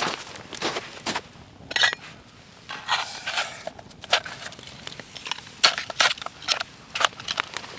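Snow crunching in irregular short bursts, about one or two a second.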